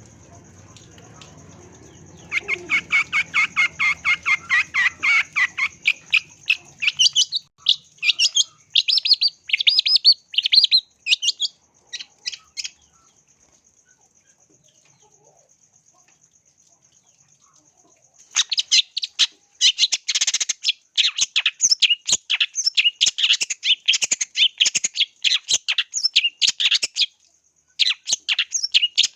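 Long-tailed shrike (cendet) singing rapid trains of sharp, high chattering notes. The song breaks off for about five seconds midway, then resumes just as fast.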